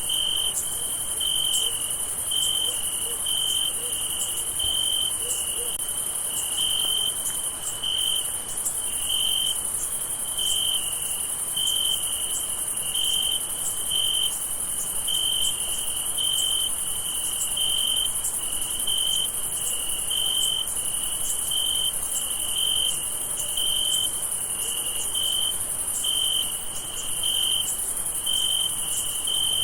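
Crickets chirping at night: one cricket chirps in a steady, even rhythm of a little more than one chirp a second, over a continuous high-pitched insect hiss.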